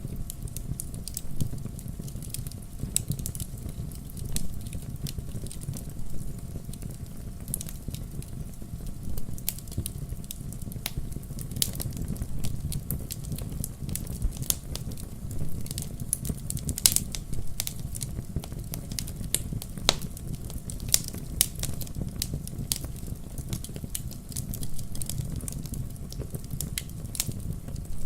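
Campfire burning with many irregular crackles and pops over a steady low rumble of the flames.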